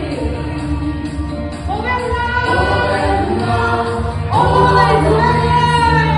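Music: a group of voices singing a Christian praise song over an instrumental backing track, with long held notes.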